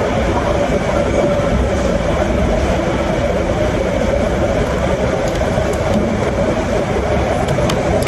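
Steady, unbroken air-conditioning noise filling the restaurant dining room, with a constant hum.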